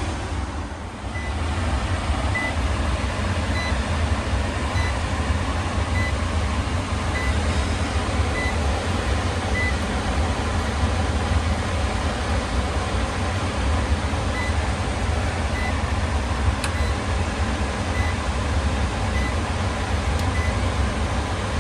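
Steady, loud machine noise, heavy in the low end, with a faint high beep repeating about every second and a quarter.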